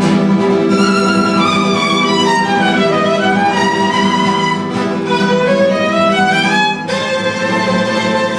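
Violin and guitar duo playing Hutsul folk tunes: a violin melody that runs down and back up over held guitar accompaniment, with a fresh phrase starting near the end.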